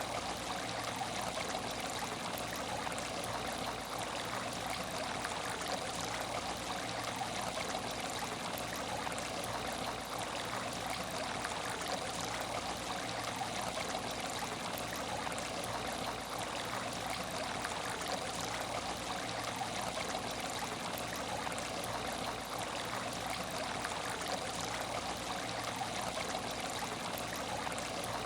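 Water in an empty aquarium tank, running and trickling steadily, as from the filter's outflow.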